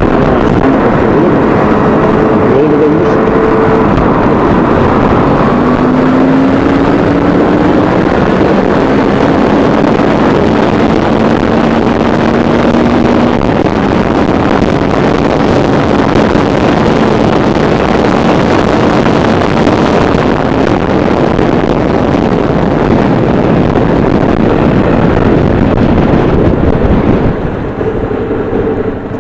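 Suzuki V-Strom 650's V-twin engine running under way, with heavy wind noise over the microphone. The engine's pitch climbs slowly at times. The noise drops a little near the end.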